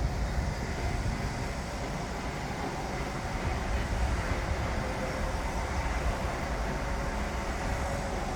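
Construction-site machinery noise: a steady, continuous low rumble with a faint mechanical whine over it.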